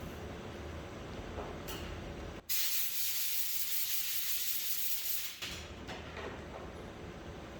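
A loud, even hiss from a pressurised jet, starting abruptly about two and a half seconds in and cutting off about three seconds later, over a low steady hum.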